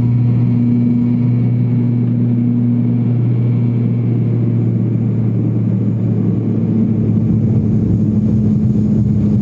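Airliner's jet engines at takeoff power: a steady low drone with a constant hum.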